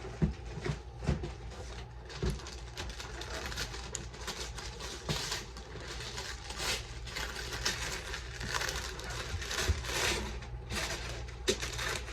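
Wrapping paper and packaging rustling and crinkling as a gift is unwrapped, with a few sharper knocks.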